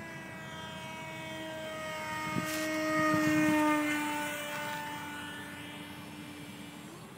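Electric ducted-fan motor of a radio-controlled model jet whining as it flies past, swelling to loudest about three seconds in and then fading, its pitch sinking slowly.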